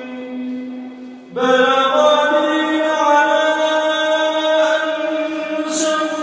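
Melodic Quran recitation: a single voice chanting in long, drawn-out held notes, with a new, louder phrase beginning about a second and a half in.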